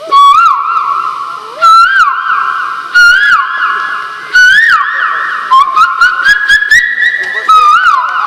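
Loud whistled bird-like call phrases, one about every 1.3 s. Each is a quick rising-and-falling note that runs into a buzzy, trilled held tone. The held tone steps higher in pitch about two-thirds of the way through.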